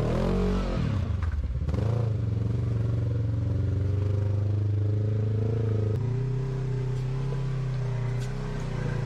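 Off-road rock crawler's engine under throttle as it climbs over rock. The revs rise and fall in the first second or so, hold steady, then drop about six seconds in.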